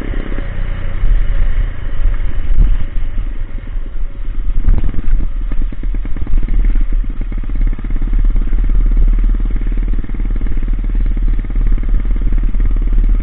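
Coolster Speedmax 125 pit bike's single-cylinder four-stroke engine running through a loud exhaust pipe, with a few short knocks about four to five seconds in.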